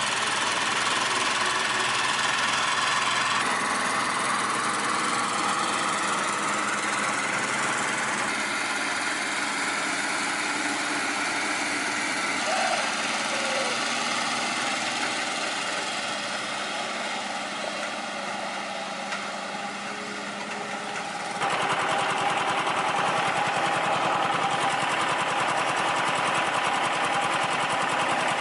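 An engine running steadily with dense mechanical noise; the sound changes abruptly twice, about three seconds in and again near the last quarter.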